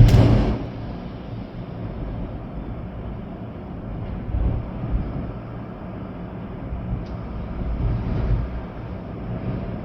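Storm wind and rain, the wind rumbling steadily in gusts, with a loud gust right at the start that dies away within half a second.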